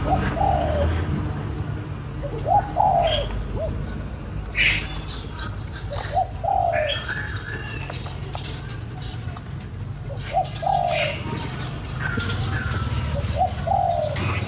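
Spotted dove cooing: a short falling call repeated five times, roughly every three seconds, with higher bird chirps in between.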